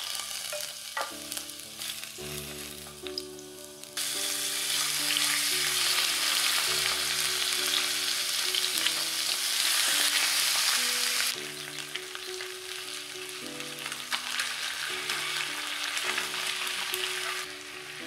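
Food frying in hot oil in a frying pan: a few light clinks and soft frying as diced potatoes and carrots are spooned in, then raw chicken pieces sizzling loudly from about four seconds in, easing to quieter frying about halfway through. Soft instrumental music plays throughout.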